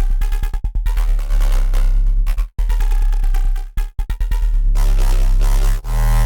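Dirty FM synth bass riff from a Bitwig Polygrid patch at 140 BPM. It plays deep sustained low notes broken by rapid stuttering retriggers, and the phrase loops about every three and a half seconds.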